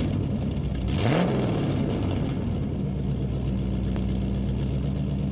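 Stock sound effect of a muscle car engine in a large room: a quick rev about a second in, then a steady idle.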